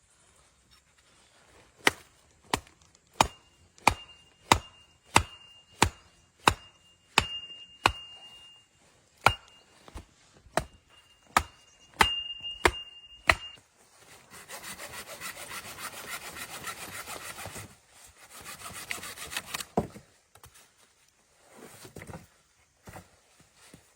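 A run of sharp tool blows on wood, about three every two seconds, with a thin ringing tone over most of them. These are followed by two stretches of steady rasping as wood is cut or worked.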